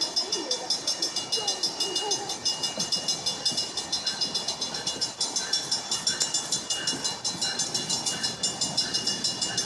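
CSX locomotive on the line, heard under an even, rapid high-pitched pulsing of several beats a second.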